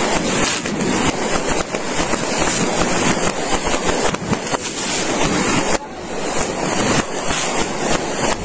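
Firecrackers going off in a dense, continuous crackle of rapid bangs, easing briefly about six seconds in.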